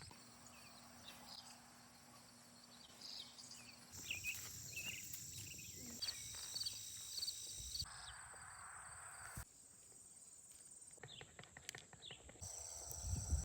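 Summer insects, such as crickets, keep up a steady high-pitched buzz, with short bird chirps over it. The background changes abruptly several times as short clips are cut together.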